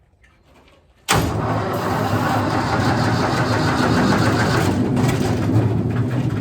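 Wood chipper's engine turned over with carb cleaner sprayed into its carburetor, which is not getting fuel: it comes in suddenly and loud about a second in and keeps going steadily.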